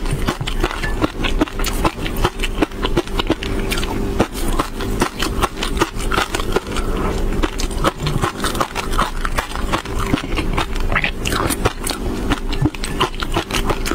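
Close-miked chewing of green fish roe with crispy bits: a dense, continuous run of quick crackling clicks and wet mouth sounds.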